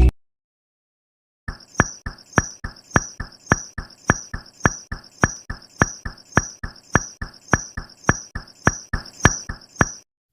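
A steady, even clip-clop of sharp knocks, about three and a half a second in pairs, starting about a second and a half in and cutting off suddenly near the end.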